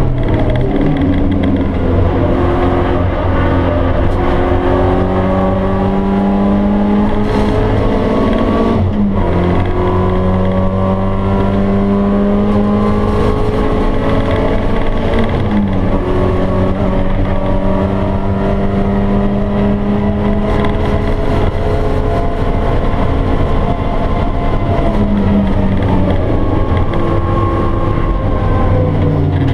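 Stock 1.8-litre 16-valve four-cylinder engine of a BMW E30 318is heard from inside the cabin under hard acceleration. Its note climbs slowly through each gear and drops at upshifts about 9 and 16 seconds in.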